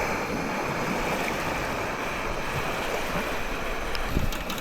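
Steady rush of water on a loch, with some wind.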